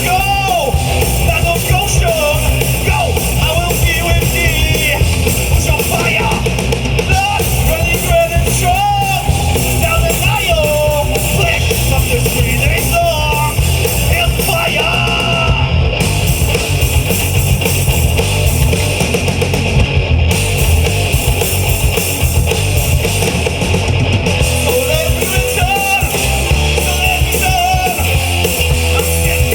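Live rock band playing loudly: drums, bass guitar and electric guitars, with a melodic line bending up and down in pitch over the top.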